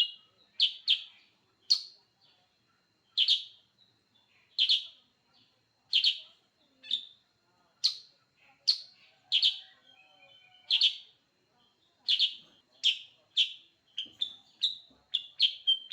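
Kutilang sutra, a bulbul, calling in short, sharp chirps about once a second, with quick runs of rapid chirps near the start and the end.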